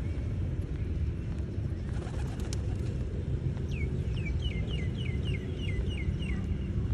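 A small bird calling a quick run of about ten short falling notes, about three a second, starting a little past halfway, over a steady low outdoor rumble.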